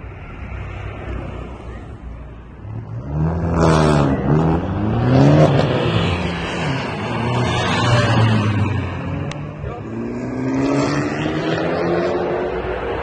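Car engine running low, then revved hard about three seconds in, its pitch jumping up and dropping back several times. Near the end it climbs in one long rising pitch as the car accelerates.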